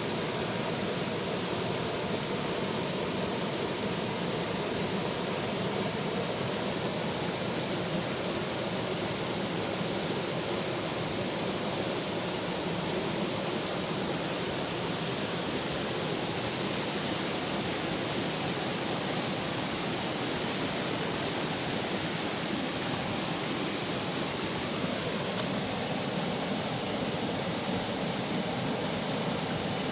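Steady rushing of a flowing river, an even unbroken water noise with no change in level.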